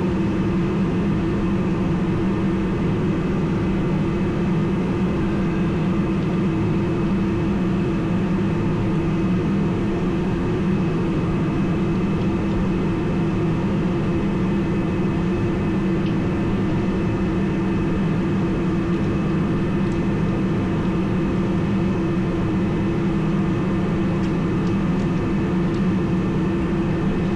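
Garage heater running: a steady, unchanging drone with a constant low hum.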